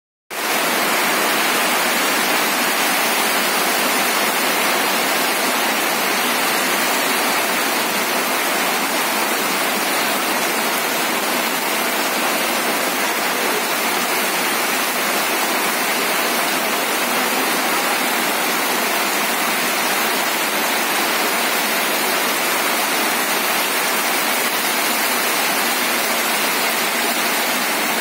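Heavy rain falling steadily, an even hiss of downpour on the ground and puddles.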